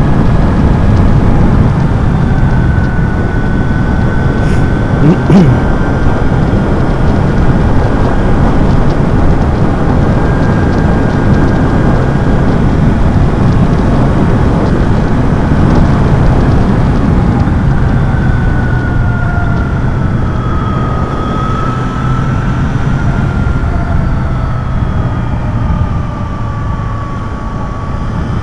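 Motorcycle being ridden on the road: heavy wind noise on the microphone over the engine, with a thin whine that drifts slowly up and down in pitch.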